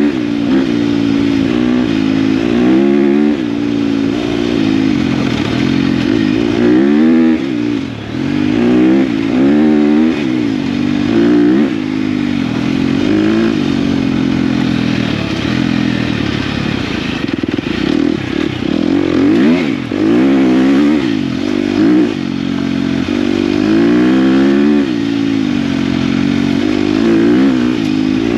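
KTM dirt bike engine under way, its pitch rising and falling repeatedly as the throttle is opened and closed, over steady wind and road noise.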